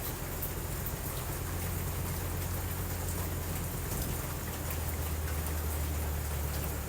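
Steady rain falling, with scattered faint drop ticks and a steady low rumble underneath.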